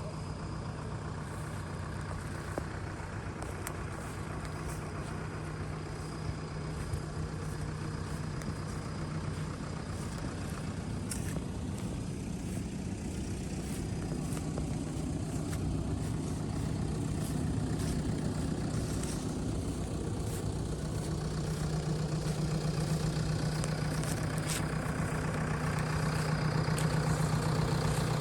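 JCB backhoe loader's diesel engine running steadily, getting somewhat louder in the second half, with a few short clicks and knocks.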